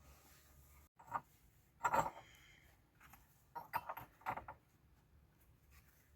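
Scattered short knocks and scrapes in a few clusters: one about a second in, a louder burst around two seconds, and a run of several near four seconds.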